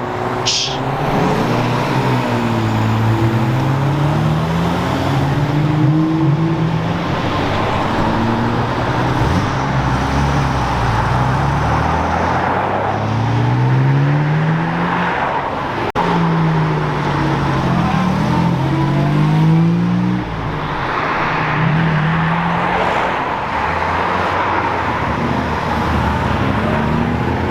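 Classic cars accelerating away, their engines revving up again and again in rising sweeps as they go through the gears, with two engine notes overlapping at times.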